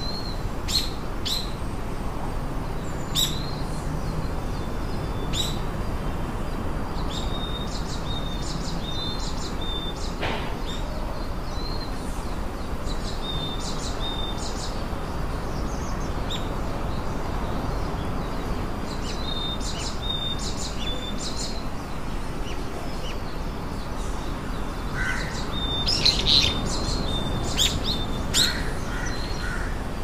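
Small birds chirping: short, high chirps scattered every few seconds, busiest and loudest near the end, over a steady low background rumble.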